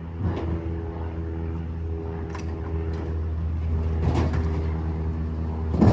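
Garbage truck engine running steadily, with four sharp knocks or clanks spaced through the sound.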